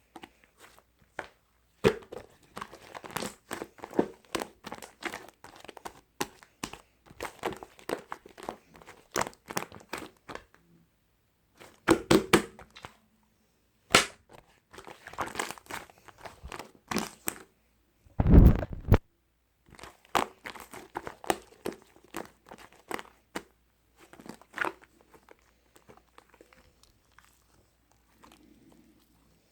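Irregular crinkling and crackling of something being handled, in quick bunches of clicks with short pauses, and one loud thud about two-thirds of the way in.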